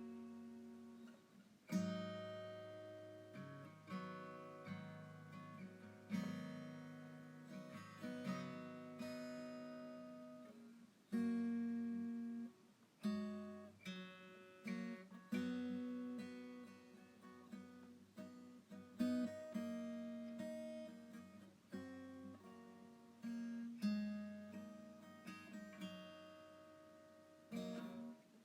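Background music: slow, gentle acoustic guitar, chords and notes plucked and left to ring out, a new chord about every two seconds.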